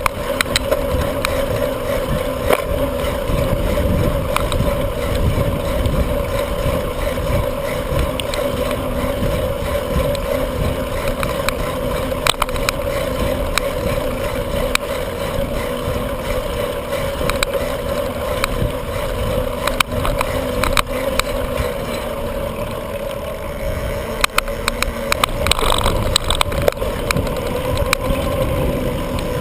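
Riding a bicycle on pavement: a continuous rumble of wind on the microphone and tyres on the road, under a steady hum, with scattered clicks and knocks from bumps.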